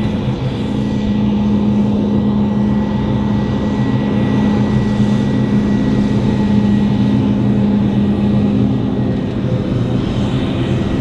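Heavy diesel farm machinery running steadily under load during maize chopping, a loud even engine drone with a strong low hum.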